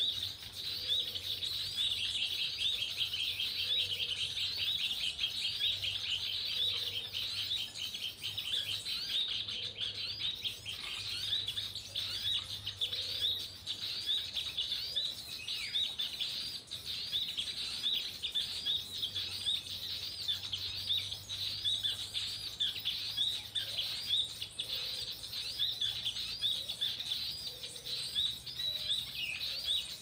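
Small birds chirping in a fast, continuous high twitter, with a soft low call repeating every couple of seconds.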